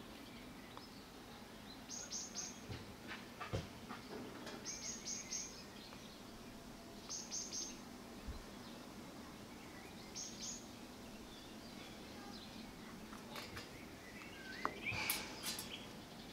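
A small bird chirping in quick runs of three or four short, high notes every few seconds, over a low steady hum with a few soft clicks. Near the end there is a louder rising squeak and rustle.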